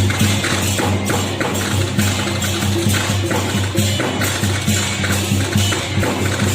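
Temple procession troupe music: percussion struck in a fast, dense, even rhythm over a steady low hum.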